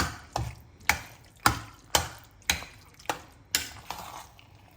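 A utensil knocking against a cooking pan while pasta is stirred in it, about nine sharp knocks at roughly two a second.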